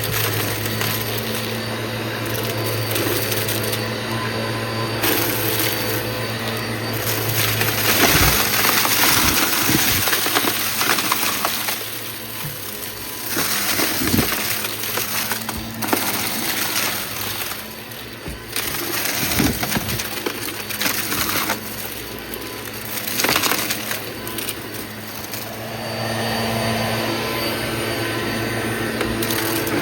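Vacuum cleaner running over a test mess, with crunching and rattling as debris is sucked up. The noise swells and drops as it is pushed back and forth.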